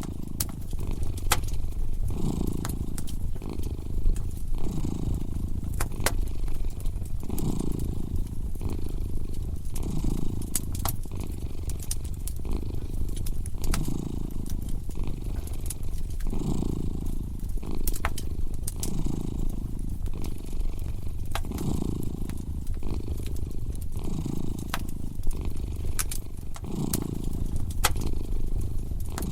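A domestic cat purring steadily, rising and falling in waves every second or two, over a crackling wood fire that gives off scattered sharp pops and snaps.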